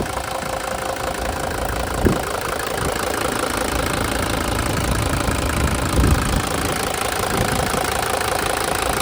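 1975 Mercedes-Benz 300 D's five-cylinder OM617 diesel engine idling steadily with its typical diesel clatter. Two brief low thumps come about two seconds and six seconds in.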